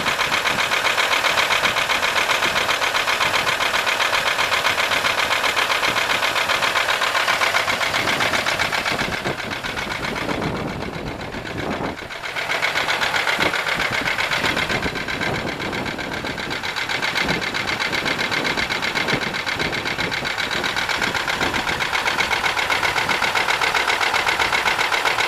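A 1995 Buick LeSabre's 3.8 V6 engine running with a rapid, steady knock, which the owner suspects comes from the valvetrain. The sound drops away briefly about ten seconds in and then comes back as loud as before.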